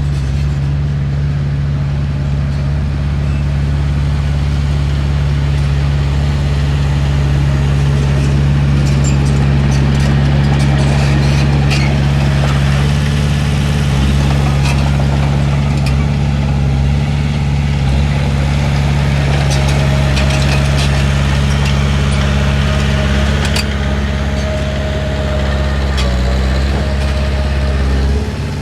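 Heavy diesel engine of earthmoving equipment running steadily with a constant low drone, with scattered short metallic clanks and ticks. A thin steady whine sounds over it for several seconds past the middle.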